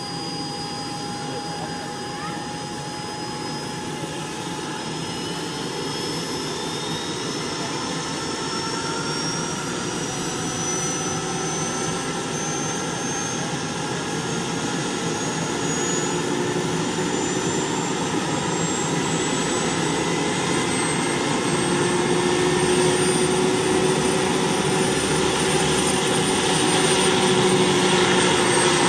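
Large remote-control Mi-24 scale model helicopter running up, a steady machine noise with a whine that climbs slowly in pitch as the sound grows louder.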